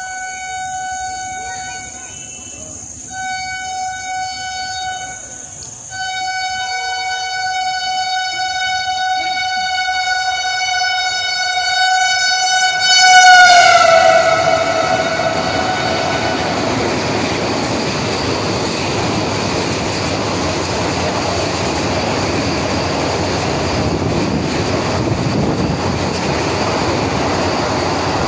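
Vande Bharat Express electric train sounding its horn as it approaches at speed: two short blasts, then a long one of about seven seconds. The long blast drops sharply in pitch and is loudest as the train reaches and passes. After that comes the steady rush and rumble of the coaches going by at speed.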